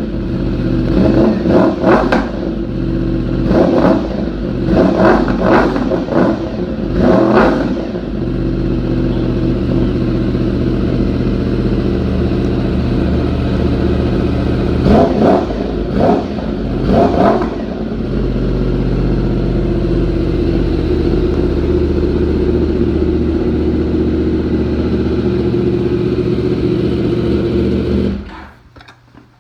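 Yamaha R1 inline-four sportbike engine through an Austin Racing aftermarket exhaust, idling with quick throttle blips: a cluster of short revs in the first several seconds and three more midway, then a steady idle that cuts off near the end.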